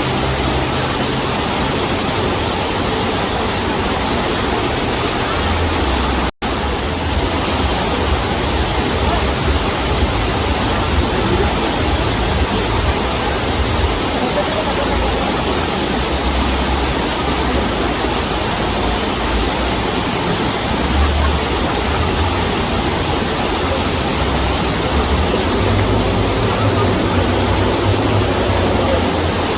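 Waterfall: a loud, steady rush of falling water, cutting out for an instant about six seconds in.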